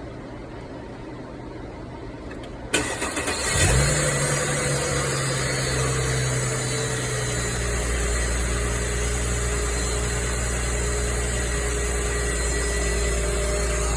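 Mercedes-Benz W212 engine started from cold: the starter cranks about three seconds in, the engine catches a second later with a brief rise in revs, then settles to a steady idle. A high-pitched whine like an electric drill runs with the idle, an abnormal noise on cold start.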